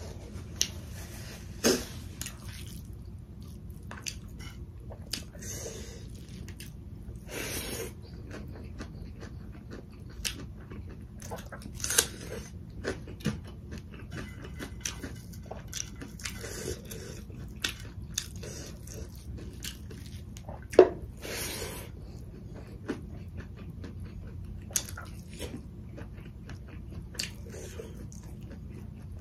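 Chewing and wet mouth sounds of a person eating rice and curry, with scattered short smacks and clicks over a faint low hum.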